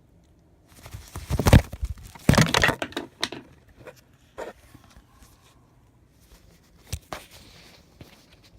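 Loud rustling and scuffling bursts during the first three seconds as a parrot is held and handled for nail clipping, then scattered light clicks and one sharp knock a few seconds later.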